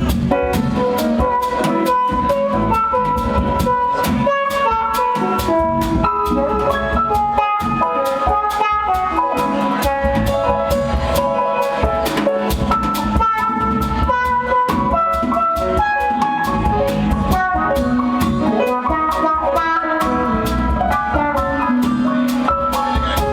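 A live instrumental band playing a jazzy jam: drum kit keeping a steady beat under a flowing melodic lead line of bright, held notes.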